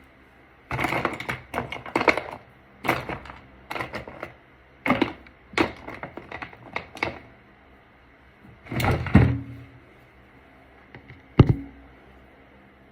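Makeup cases and tools being picked up, opened and set down: irregular clusters of small clicks and taps for several seconds, a louder knock about nine seconds in and a single sharp knock near the end.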